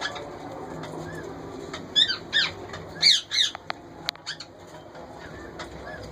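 Indian ringneck parakeets squawking: four loud, harsh calls in two quick pairs about two to three and a half seconds in, over soft repeated chirps from other birds. A few sharp clicks follow the calls.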